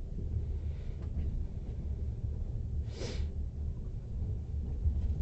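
Low, steady rumble of a moving passenger train heard from inside the carriage, with one short hiss about three seconds in.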